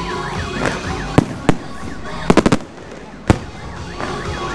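Aerial fireworks shells bursting overhead: separate sharp bangs with a quick run of four about halfway through.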